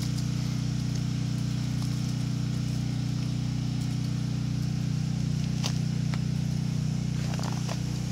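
Generator engine running steadily with a constant low hum. A few faint clicks sound over it about six to seven seconds in.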